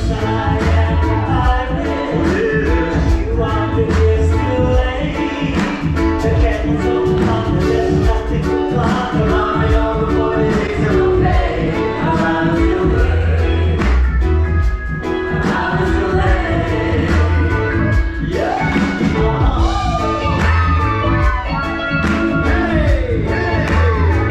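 Live band playing an upbeat song with singing and a steady beat.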